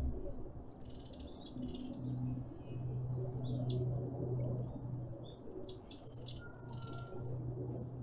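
Wild birds chirping in the surrounding trees: short, high calls scattered throughout, busier and higher about six seconds in, over a steady low hum.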